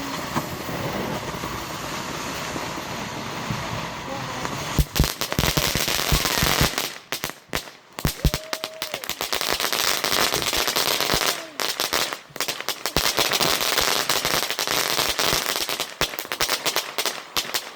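Consumer fireworks: a steady hiss for about five seconds, then a long run of rapid, loud cracks and bangs, like a firecracker string, with brief breaks, lasting about twelve seconds.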